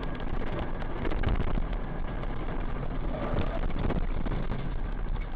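Car driving noise, the steady mix of engine and tyres on the road, with scattered small knocks and rattles.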